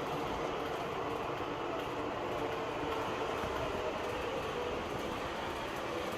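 MTH O-scale R-40 Slant model subway train running between stations: a steady rumble of subway-car running sounds with a faint constant hum.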